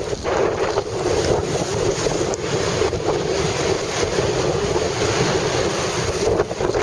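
Storm-force wind buffeting the microphone over the continuous rush of heavy storm waves surging into the harbour.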